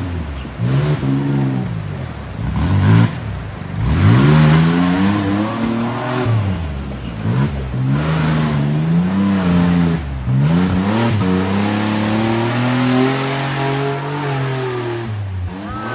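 Off-road 4x4 competition vehicle's engine revving up and down repeatedly under load, its pitch climbing and falling every second or two, with a sharp rise about four seconds in.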